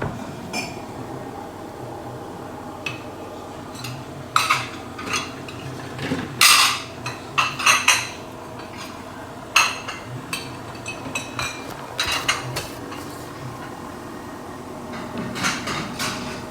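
Irregular clinks and clatters of crockery and cutlery, in scattered clusters, over the steady low hum of the Neff washing machine.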